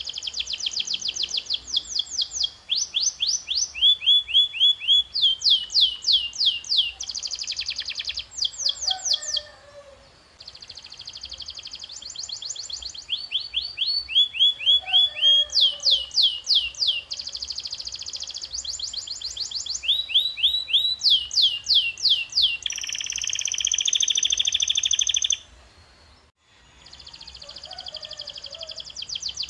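Canary singing: fast rolling trills and runs of repeated down-sweeping notes, then a harsher, buzzier phrase about 23 seconds in. The song breaks off briefly about 10 seconds in and again about 26 seconds in.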